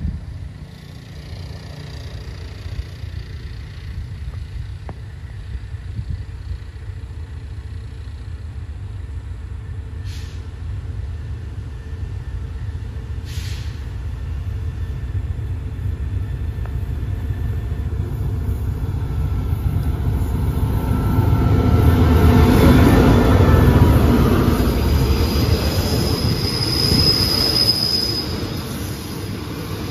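Diesel locomotive-hauled passenger train approaching and running past: a low rumble grows steadily louder, peaking about two-thirds of the way through as the locomotive draws level. Then the coaches roll by with a high wheel squeal near the end as the train curves in to stop.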